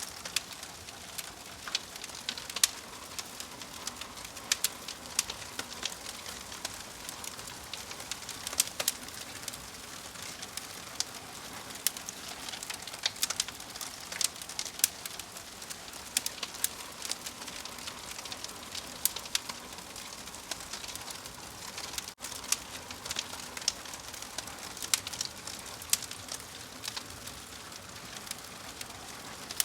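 Wood fire crackling: a steady hiss with frequent irregular sharp pops and snaps. The sound cuts out for a split second about 22 seconds in.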